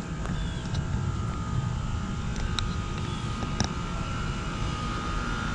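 Residential heat pump outdoor units running together: a steady rush and low hum from the condenser fans and compressors, with a thin steady whine over it.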